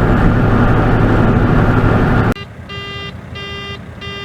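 Steady rumble of a truck running on the road, which cuts off abruptly about two seconds in. An in-cab warning beeper then sounds, with a short pitched beep repeating evenly, a bit under one and a half times a second.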